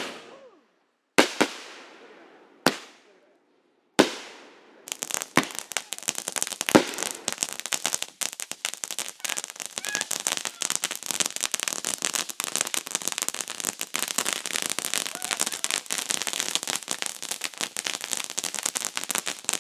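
Multi-shot consumer fireworks cake firing: a few single loud bangs about a second and a half apart, each fading away, then from about five seconds in a dense, continuous crackling.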